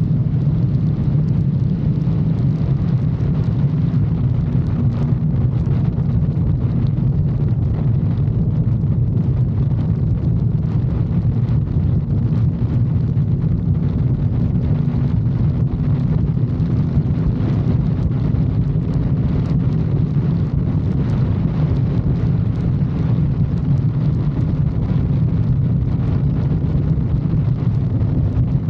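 Motorcycle engine running steadily at cruising speed on an expressway, a constant low drone with no revving, mixed with wind rushing over the microphone.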